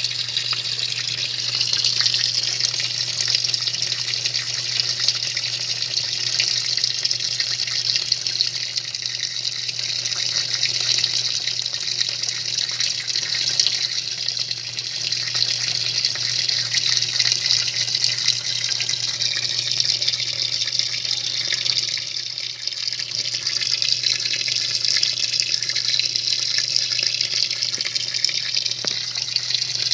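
A 'faz tudo' semi-automatic washing machine running steadily, with the noise of water churning in the tub over a constant low hum.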